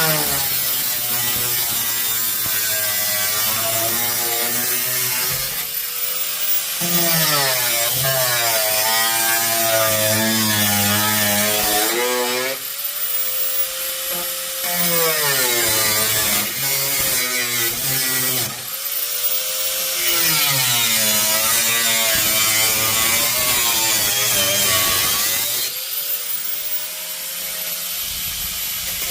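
Corded DeWalt power saw cutting through the trunk floor sheet metal in about five runs a few seconds apart. The motor's pitch sags and climbs as the blade loads up and frees.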